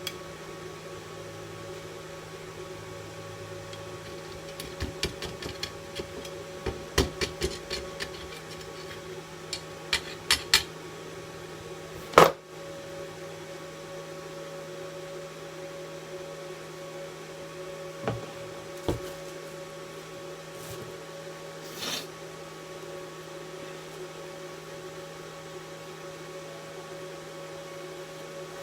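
Steady electrical hum of a DC inverter welding machine, with a run of sharp clicks and crackles from about five to ten seconds in, one loud crack a little after twelve seconds, and a few softer knocks later.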